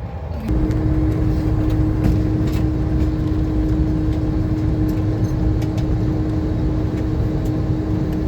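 Cabin noise of a Boeing 747-400 airliner: a low rumble with a steady hum, which jumps up in level about half a second in and then holds steady.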